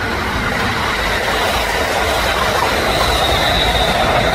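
Electric train running on the rails: a steady rumble with a high-pitched whine held above it.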